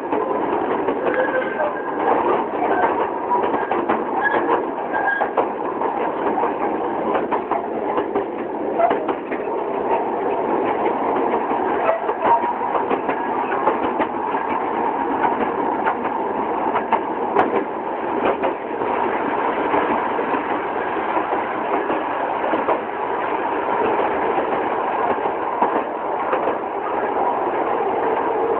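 A rail vehicle running along track, with steady rattling and many small clicks from the wheels and carriage, and voices faintly beneath.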